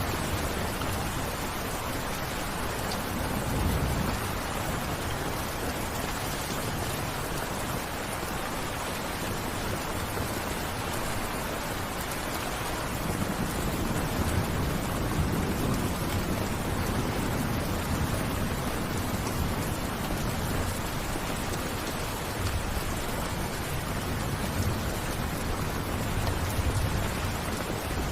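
Steady rain falling, an even hiss of drops, with a low rumble swelling up a few times underneath.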